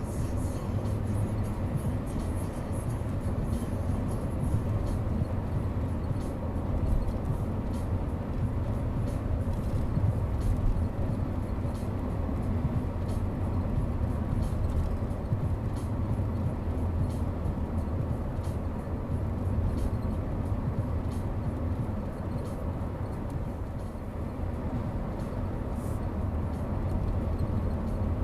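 A vehicle on the move, a steady low rumble of engine and road noise.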